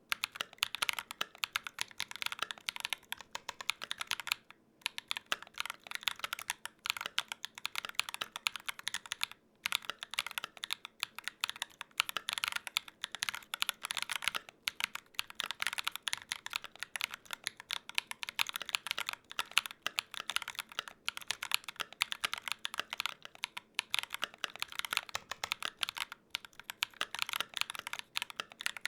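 Continuous fast typing on a Gok 7V custom 75% mechanical keyboard with lubed tactile switches: a dense run of key clacks, with brief pauses about four and nine seconds in.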